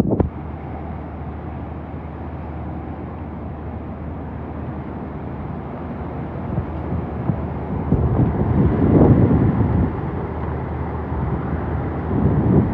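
Hurricane-force wind gusting past and over the microphone as a steady rushing noise, swelling louder about eight seconds in and again near the end.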